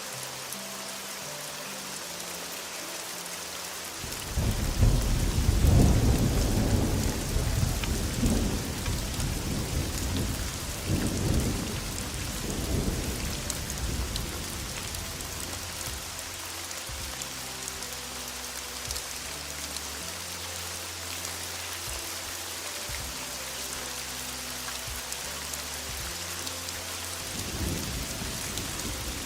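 Steady heavy rain, with a loud roll of thunder a few seconds in that rumbles on and fades over several seconds. A smaller rumble follows, and more thunder builds near the end.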